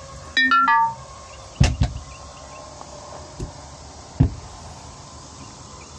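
A short squeak that drops in pitch in several steps, followed by a few sharp knocks and thumps, over a steady chirring of insects.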